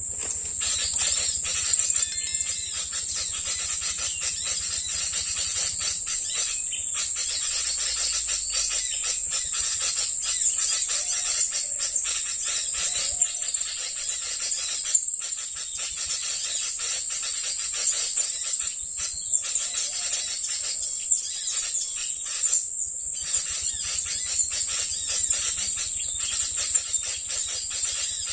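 Dense, unbroken high-pitched chirping of small birds, the recorded lure calls played from an mp3 speaker to draw in sunbirds and other small birds for trapping.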